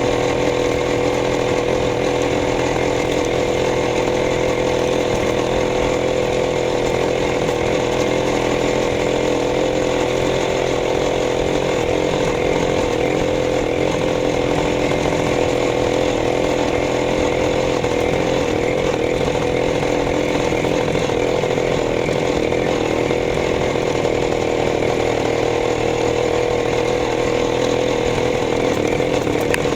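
Minsk motorcycle's single-cylinder engine running at a steady speed, with an even buzz that holds the same pitch and loudness throughout.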